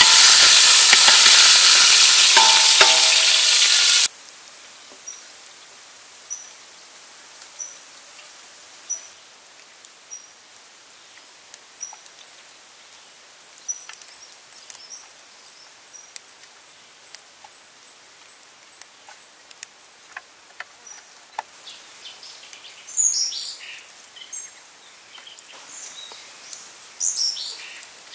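Beef frying in oil in a wok, sizzling loudly as a metal spatula turns it; the sizzle cuts off abruptly about four seconds in. After that it is quiet outdoors: a bird gives a short high chirp every second or so, small clicks and rustles come from leafy greens being picked over by hand, and two louder bird calls sound near the end.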